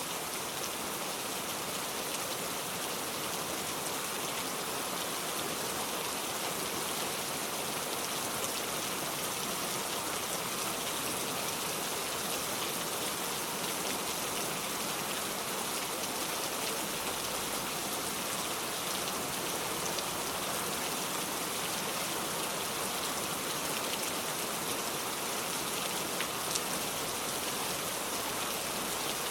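Steady rain falling, an even hiss with scattered light drop ticks throughout.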